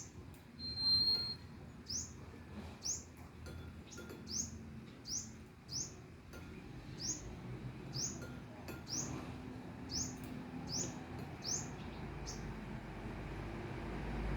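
A small bird repeating a short, high, upward-sweeping chirp about a dozen times, every half second to a second, with one brief steady high whistle about a second in. A low rumble builds near the end.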